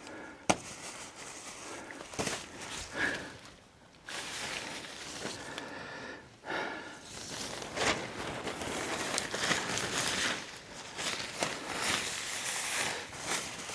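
Silk poly tent fabric rustling and crinkling in irregular bursts as the door loops of a Lanshan 1 Pro are handled and fastened onto their shared toggle.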